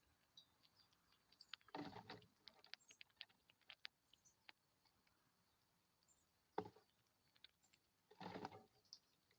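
Faint clicking and tapping from small animals moving about, with a brief scuffling rustle about two seconds in, a sharp knock near seven seconds and another rustle just past eight seconds.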